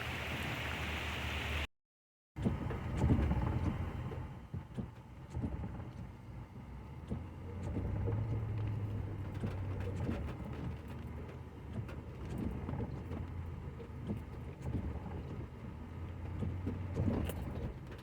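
Steady rain hiss for the first couple of seconds, then, after a short silent cut, a Ford Raptor pickup's engine running with a low, uneven drone as the truck drives off-road, with scattered knocks and rattles.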